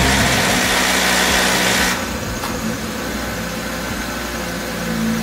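Audi RS3's 2.5-litre turbocharged five-cylinder engine just after start-up, louder for about the first two seconds and then settling to a steady idle. It is the first run after an oil change, circulating the fresh oil through the pump and filter housing.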